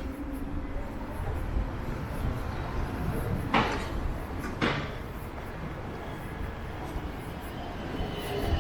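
Wind buffeting the microphone over steady street noise, with two short knocks about a second apart midway.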